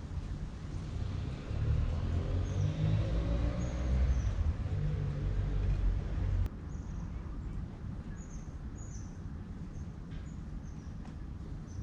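A vehicle engine running, a low rumble that cuts off abruptly about six and a half seconds in; small birds chirp throughout.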